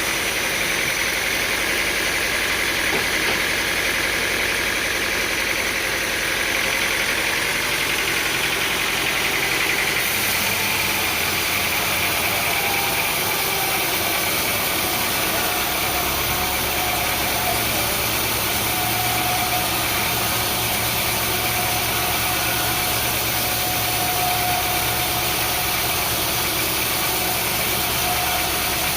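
Sawmill machinery running steadily with an engine-like drone. The sound changes about ten seconds in, and a deeper hum joins about sixteen seconds in.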